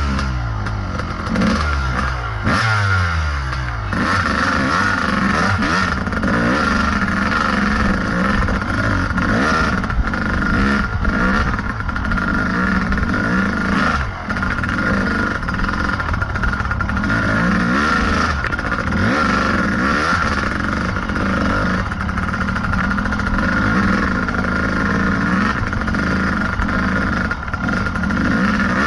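Kawasaki KDX220 single-cylinder two-stroke dirt bike engine under load on a rough trail. The revs rise and fall quickly for the first few seconds, then run more evenly, with scattered clattering knocks.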